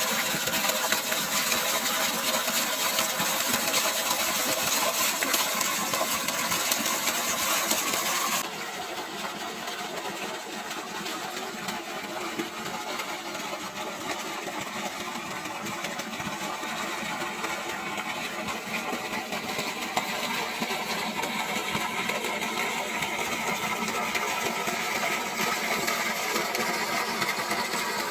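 An engine running steadily, with an even hiss over it that drops abruptly about eight seconds in, leaving the engine sound quieter.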